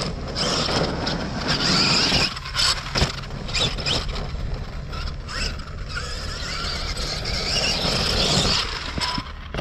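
Arrma Kraton brushless-electric RC monster truck driving hard over rough dirt, its drivetrain and tyres making a busy mechanical noise, with sharp knocks around two and a half and three seconds in.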